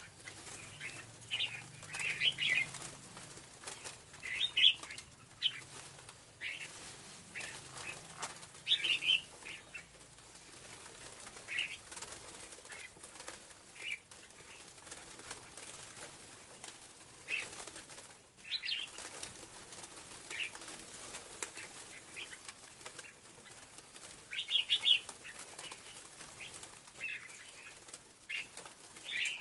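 Scarlet-backed flowerpecker calling: short, sharp, high chirps repeated irregularly every second or two, over a faint steady hiss.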